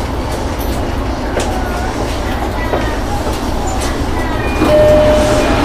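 Commuter train heard from inside the carriage: a steady low rumble. Near the end a steady high tone sets in and the sound grows louder.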